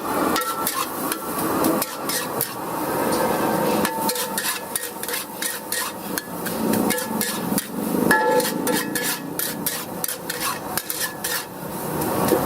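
A metal spatula or ladle stir-frying in a wok, knocking and scraping against it in rapid, irregular strikes, with short metallic rings.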